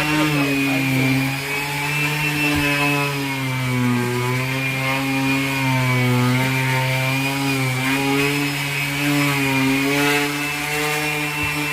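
Electric power sander running steadily as it sands, its motor hum wavering slightly in pitch as it is worked against the surface.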